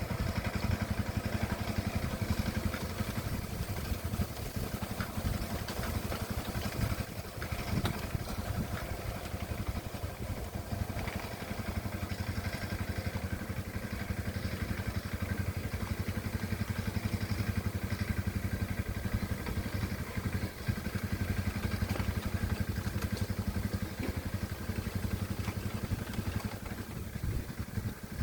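Engine of a hand tractor running steadily as it plows a rice paddy, a fast even chugging that dips briefly about seven and twenty seconds in.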